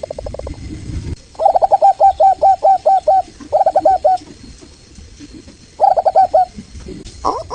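Zebra dove (local Indonesian perkutut, Geopelia striata) cooing in quick runs of short clipped notes: a phrase of about eight notes, then two shorter phrases a little later.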